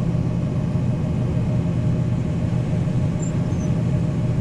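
Combine harvester running steadily while cutting soybeans, a constant low drone.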